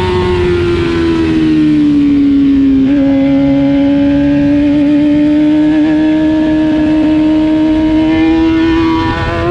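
Race motorcycle engine heard from on board, running hard at a high, steady pitch. The pitch eases down over the first few seconds, holds nearly level through the middle, then rises again near the end as the throttle opens.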